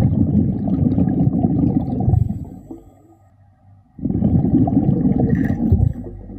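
A diver breathing underwater through a regulator: two long rushes of exhaled bubbles, the second starting about four seconds in, with a quieter inhale between.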